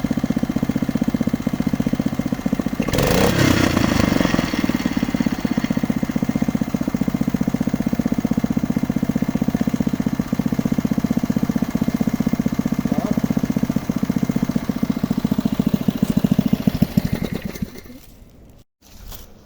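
Engine of a geological exploration drilling rig running steadily with a fast, even pulse, and a brief louder noisy burst about three seconds in. The engine sound cuts off near the end.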